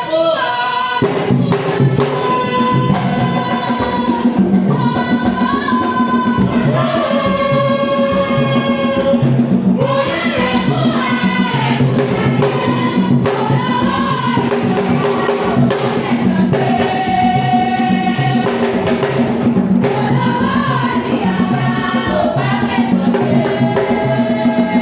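Group singing over drums and percussion with a steady, repeating beat, with sharp hand-percussion strokes throughout.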